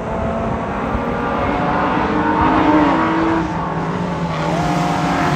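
Vintage Indy race cars' engines running hard into a bend, several at once. One engine's pitch falls a little before halfway, and another climbs near the end as the cars pull away.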